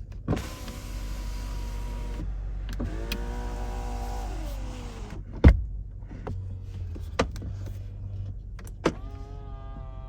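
Electric power-accessory motors in a Range Rover whining in several separate runs, one winding down at its end, with a loud click midway and smaller clicks between runs.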